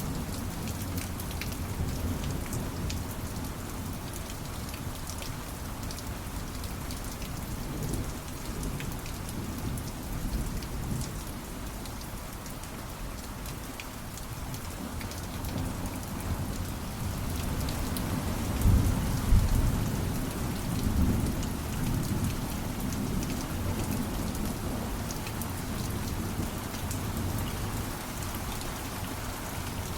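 Steady heavy rain with distant thunder rumbling, swelling to its loudest rumble about two-thirds of the way through.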